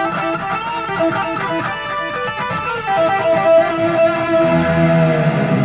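Ibanez AZ242PGB electric guitar on its single-coil setting with a little delay, playing a run of picked notes that settles into a long held note, bent near the end.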